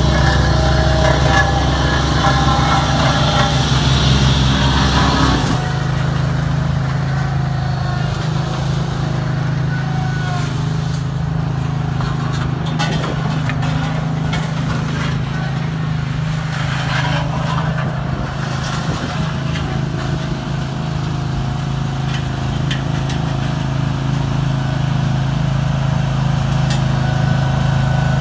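Engine running steadily. About five seconds in it drops from a heavier, louder running to a steadier, slightly quieter hum.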